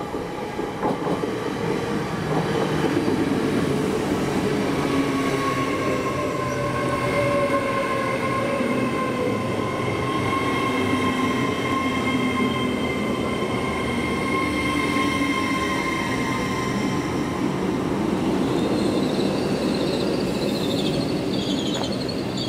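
A train moving along the station platform at close range, its running rumble carrying several steady whining tones, some slowly falling in pitch. A high wavering squeal from the wheels or brakes sets in near the end.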